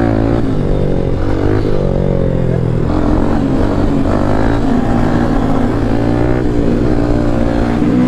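Motorcycle engine running loud and steady, its pitch rising and falling with changes of throttle.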